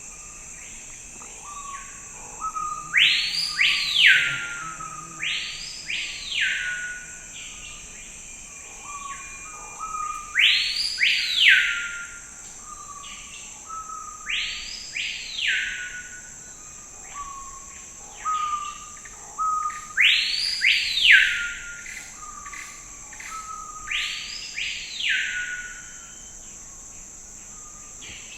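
Forest bird calling: six loud notes that each sweep up sharply and fall away, in three spaced pairs, with shorter lower whistles between them. A steady high insect drone runs underneath.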